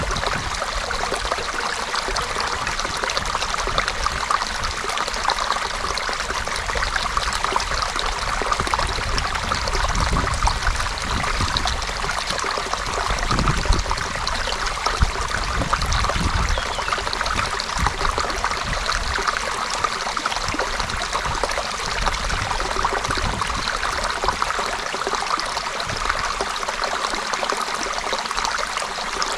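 Stream water running steadily over stones, a continuous trickling and burbling rush.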